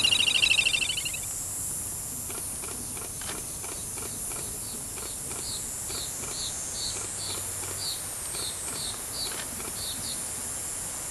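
Wild bird calling: a loud, rapid trill that ends about a second in, then a run of short high chirps, two or three a second, over a steady high insect hiss.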